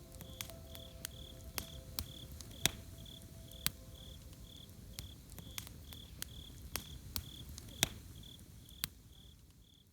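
Campfire burning with sharp, irregular crackles and pops over a low steady rustle, while a cricket chirps steadily about twice a second. It all fades out near the end.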